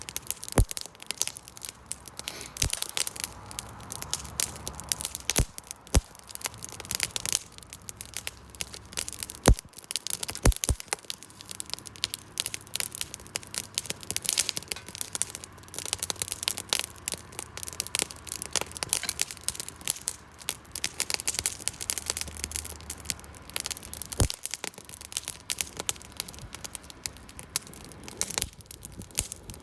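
Wood campfire crackling steadily, a dense patter of small crackles with a handful of sharper pops scattered through.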